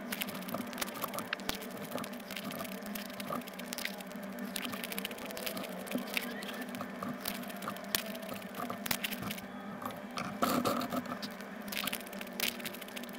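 Close-miked chewing of pani puri: crisp fried puri shells cracking and crunching in the mouth, with wet squishing from the pani filling, in many quick irregular crunches and a louder burst of crunching about ten seconds in.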